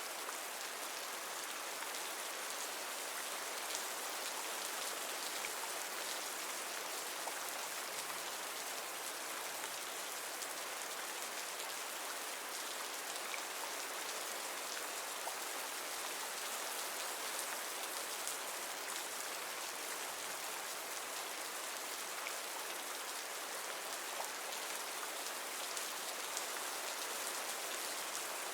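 Steady rain falling, with scattered light drop ticks on a surface.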